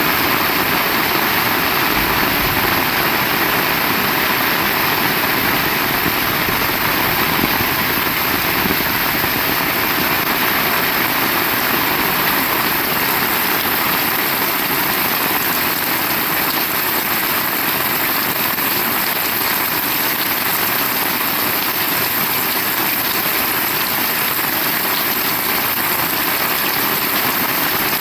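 Heavy rain falling steadily, a dense, even downpour without letup.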